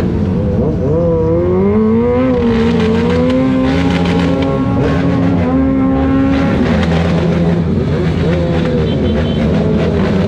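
Several motorcycle engines running and revving at once, their pitches rising and falling against one another over a steady low rumble.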